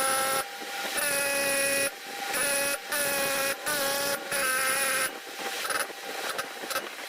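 A small motor whining at a steady pitch in short bursts, stopping and starting abruptly about seven times.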